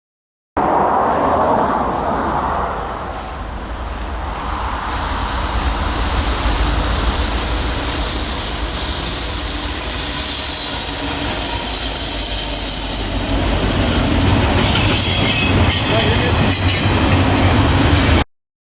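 A train rolling past on the rails: a steady low rumble with a high hiss of wheels on rail that grows louder partway through. In the last few seconds, wheels click over rail joints and squeal high.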